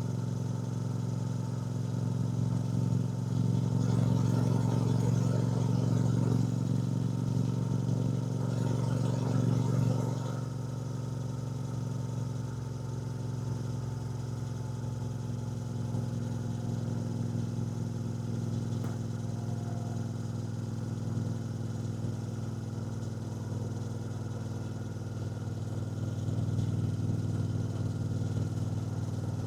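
2024 Triumph Bonneville T120's 1200 cc parallel-twin engine running under way while riding. It is louder with more throttle for the first ten seconds or so, then settles to a steadier, slightly quieter pull, picking up a little again near the end.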